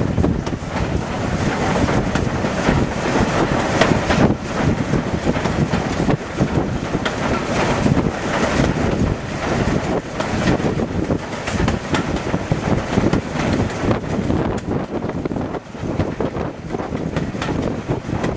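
Train behind steam locomotive 53808, an S&DJR 7F 2-8-0, running downhill: steady wheel-and-rail running noise with irregular knocks, and wind buffeting the microphone.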